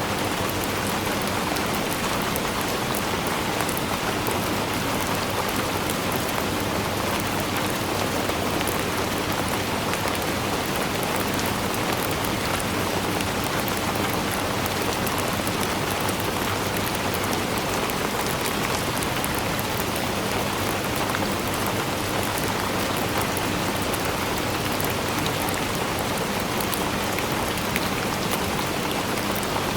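Steady rainfall, an even hiss with a dense patter of drops striking a surface.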